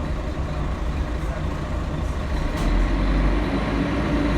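Inside the cabin of a Scania L113CRL bus: its diesel engine runs under road noise as a steady low drone, which grows louder and heavier about two and a half seconds in as the engine pulls harder.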